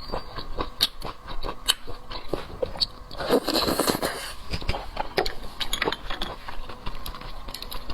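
Close-miked eating of seafood: chewing with wet clicks and scraping as shellfish is handled and bitten, with a denser crackling stretch about three to four seconds in.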